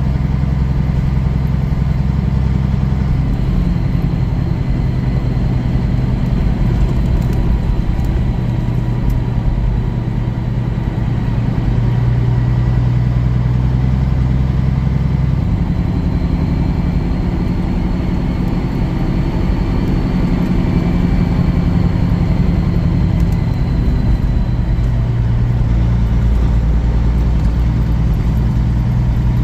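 Semi truck's diesel engine running steadily as the truck drives, with the engine note changing about halfway through.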